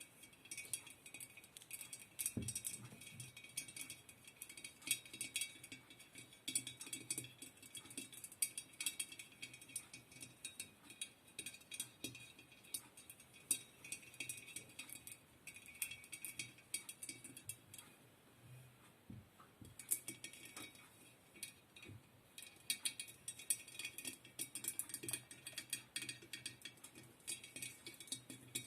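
Close-miked ASMR trigger sounds: a dense, irregular run of small crisp clicks and taps, with a brief lull about two-thirds of the way through.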